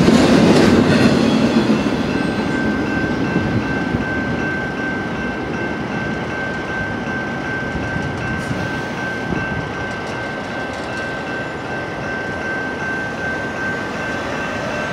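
The tail of a BNSF double-stack intermodal freight train rolls past the crossing and fades away over the first few seconds. The grade crossing's warning bell rings steadily throughout, over the train's lingering rumble.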